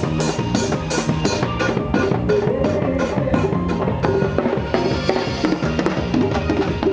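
Worship band playing an instrumental passage with a drum kit keeping a steady beat of about four hits a second over bass and other instruments; the regular high hits drop out about four seconds in.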